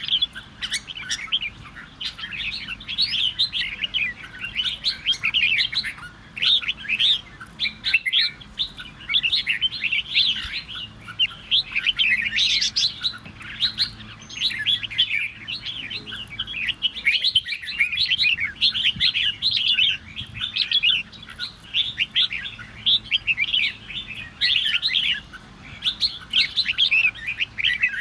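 Red-whiskered bulbuls singing a combative, rivalrous song: a dense, unbroken stream of quick chirping and warbling phrases.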